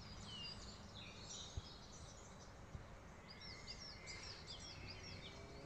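Faint birdsong: small birds giving short high chirps, with a quick series of repeated notes a little after three seconds in, over a steady low background noise.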